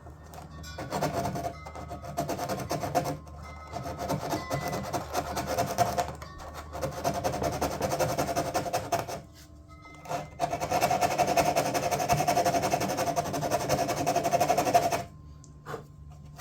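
Sandpaper worked by hand over the thin fibreglass edges of a door panel, knocking down the straggly loose fibres: scratchy back-and-forth rubbing in several runs. There are short pauses about three and nine seconds in, and the sanding stops a second or so before the end.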